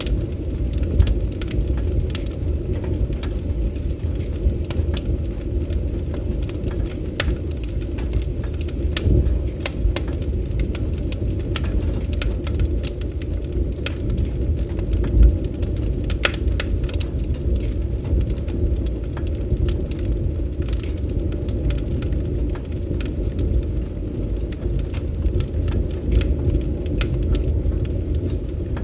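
Fireplace fire crackling: a steady low rumble of burning with frequent small snaps and pops, a louder pop about fifteen seconds in.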